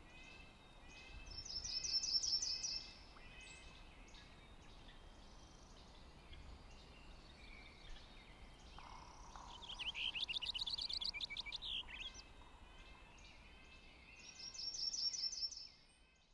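Songbirds singing: a loud, fast, high trill about a second in, a longer, more varied warbled phrase in the middle, and another fast trill near the end, over steady repeated chirping from other birds.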